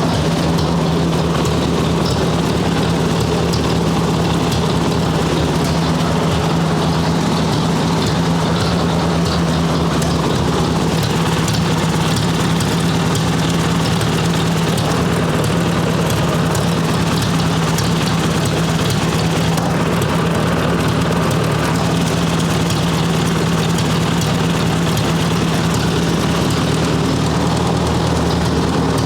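1958 Ford 851 tractor engine running steadily at idle, left running to bleed air out of its freshly rebuilt hydraulic pump.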